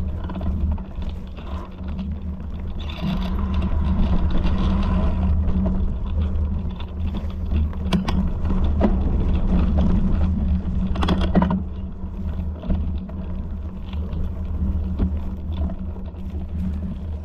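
Steady low rumble, with scattered knocks and a short burst of rattling about eleven seconds in.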